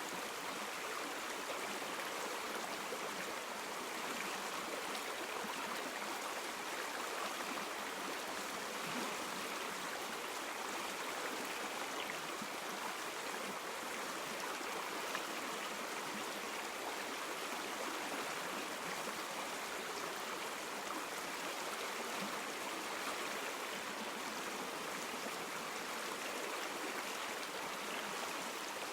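River water flowing over stones, a steady rushing and babbling that stays even throughout.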